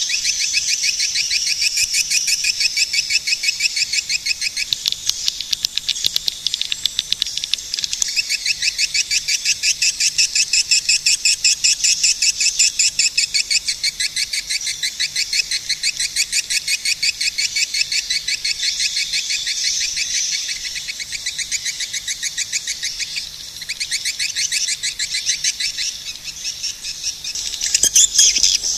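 Swiftlets calling: a dense, steady stream of rapid high chirps, several a second, growing louder near the end.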